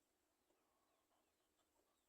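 Near silence, with a few faint, short, high chirps and soft ticks from small birds.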